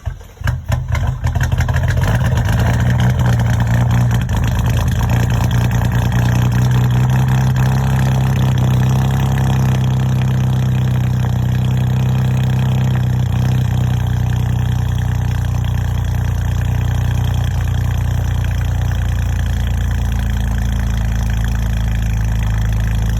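BMW N54 twin-turbo inline-six cranking and catching after a hard start, which comes from intake-valve cleaner sprayed into the intake ports. It runs a little faster for a couple of seconds, then settles into a steady idle about four seconds in.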